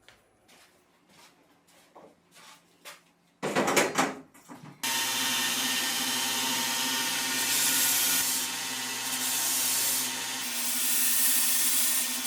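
Light handling clicks, then a loud rough scrape, then a small electric power tool that starts about five seconds in and runs steadily with a motor hum under an abrasive rasping, as in power sanding.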